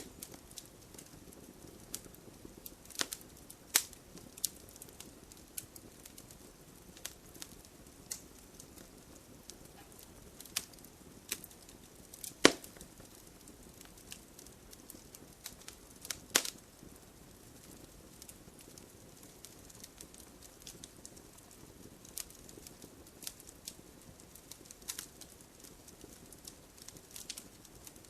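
Burning wood logs crackling, with scattered sharp pops over a soft steady hiss of the fire; the loudest pop comes about halfway through.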